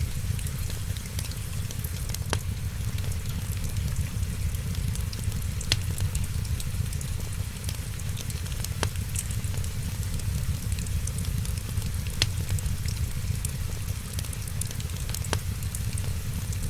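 Wood fire crackling steadily over a low, even rumble, with a sharp pop about every three seconds, five in all.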